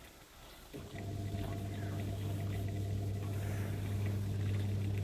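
A small motor starts up about a second in and runs with a steady low hum.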